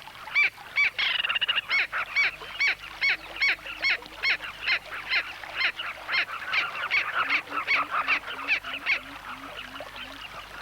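Giant kingfisher giving a loud, agitated call: a long series of harsh repeated notes, about three a second, thinning out near the end. It is the bird's annoyance call at neighbours crowding its nest bank.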